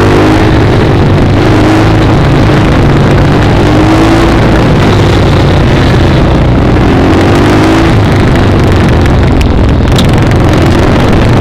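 Small dirt bike engine running under way, its pitch rising and falling with the throttle, under heavy wind buffeting on the microphone.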